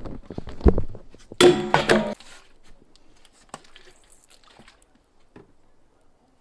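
A run of irregular knocks, then a loud clatter with a brief ringing for under a second, then a few faint scattered ticks.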